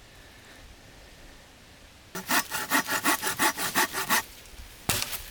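A hand saw cutting wood with quick back-and-forth strokes, about six a second, lasting about two seconds. A single sharp stroke follows near the end.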